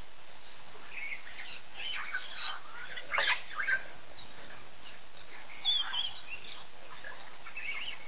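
Wild birds chirping and calling in short, scattered calls over a steady background hiss, the loudest calls about three seconds in and again around six seconds.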